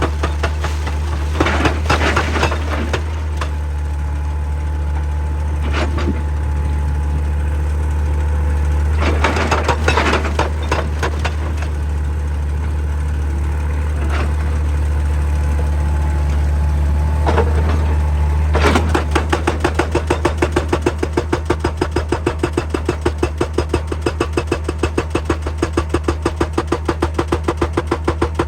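Excavator's diesel engine running steadily under a hydraulic rock breaker. The breaker hammers in short bursts, then settles about two-thirds of the way in into a steady run of rapid, even blows.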